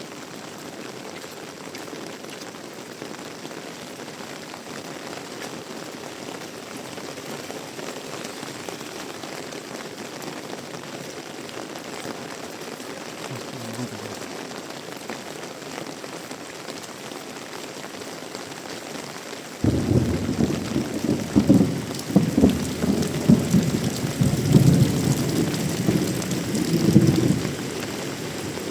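Heavy tropical rain falling steadily. About two-thirds of the way through, thunder breaks in suddenly, a loud low rumble with crackling peaks lasting several seconds before fading back to the rain.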